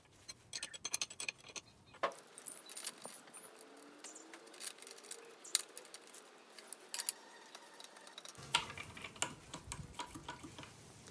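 Small metal parts and hand tools clicking and clinking in irregular taps while the hydraulic release valve of a scissor car lift is being reinstalled.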